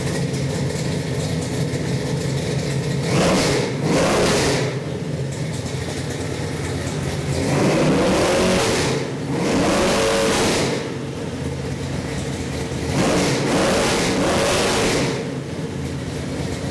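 Chevy 454 big-block V8 crate engine with a Holley carburetor running at idle on a test stand and revved up about six times, mostly in pairs of short blips, each rising and falling back to idle.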